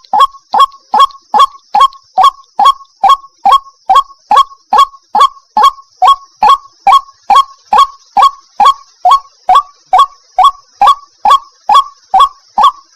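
White-breasted waterhen giving its repeated call, one short, loud, falling note about two and a half times a second in an even rhythm, over a faint steady high hiss.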